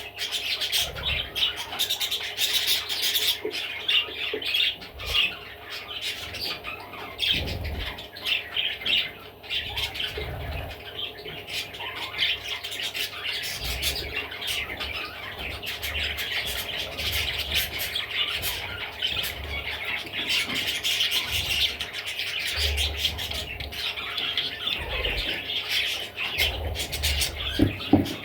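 Budgerigar chattering and squawking nonstop, a dense run of fast chirps, clicks and scratchy notes, with scattered low thumps underneath.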